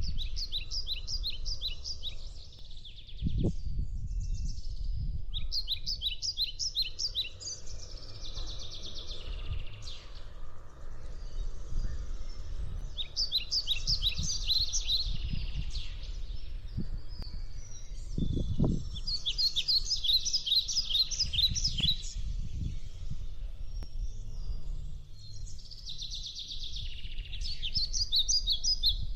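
Birds singing in repeated bouts of fast, high chirps every few seconds, over a steady low rumble that swells briefly twice.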